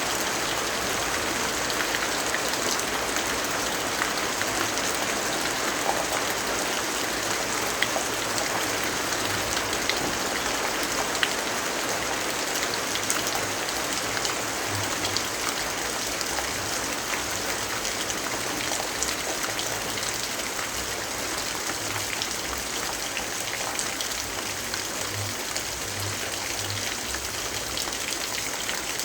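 Steady rain falling, an even hiss with occasional sharper ticks.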